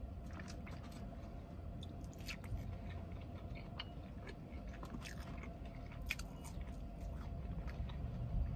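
Close-miked chewing of food, with scattered small smacks and crunches at an irregular pace, over a steady low hum.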